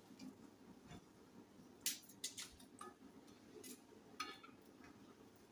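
Faint, irregular light clicks and taps of kitchen utensils and dishes being handled while food is prepared.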